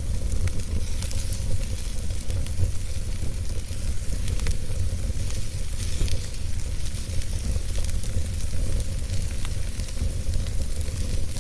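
Wood fire burning in a fireplace: a steady low rumble of flames under frequent small, sharp crackles and pops from the burning logs.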